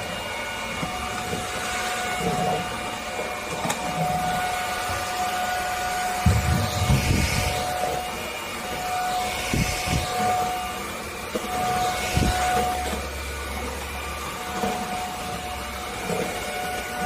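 Cordless stick vacuum cleaner running with a steady rushing noise, its motor whine breaking off and coming back several times, with a few low bumps about six to twelve seconds in.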